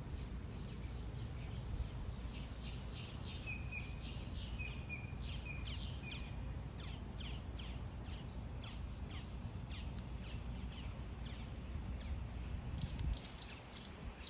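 Birds chirping over a steady low rumble: many short, sharp chirps repeat throughout, with a few lower whistled notes about three to six seconds in and a quick run of high chirps near the end.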